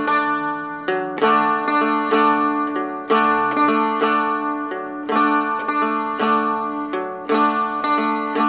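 Seagull Merlin M4, a four-string fretted dulcimer, flatpicked in a slow, even picking pattern of about two or three notes a second over ringing drone strings, alternating an upstroke on the high string with a downstroke on the middle string.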